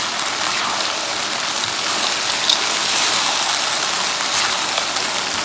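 Kung Pao chicken sizzling in a hot wok: a steady frying hiss, with one sharp click about two and a half seconds in.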